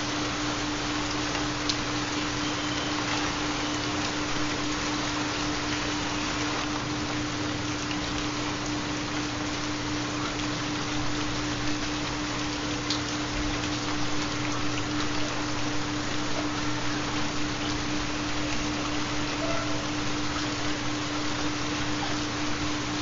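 Steady recorded rain with a constant low hum-like tone underneath, the carrier of a 4 Hz theta binaural beat.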